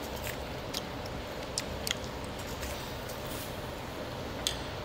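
Faint chewing with a few soft clicks over a steady low room hum.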